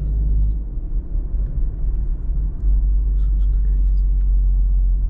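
Low, steady rumble of a car driving, heard from inside the cabin: engine and road drone.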